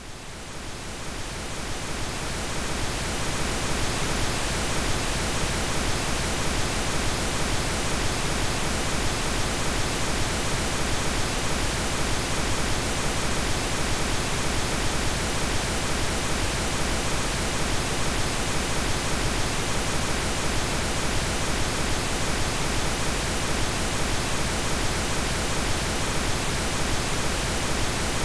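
Synthetic pink noise: a steady, even hiss with no tone or rhythm. It fades in over the first few seconds and then holds steady.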